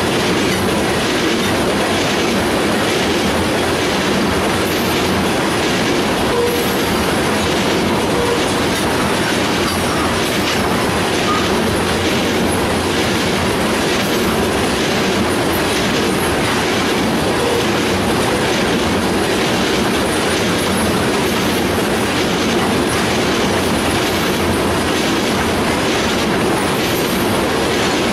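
Freight train of tank cars rolling past close by: a steady rumble of steel wheels on the rails with a rhythmic clickety-clack of the wheels passing over rail joints.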